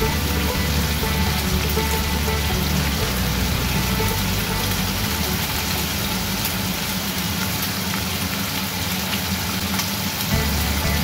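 Pork belly frying in hot oil in a wok: a steady sizzling hiss, with background music underneath.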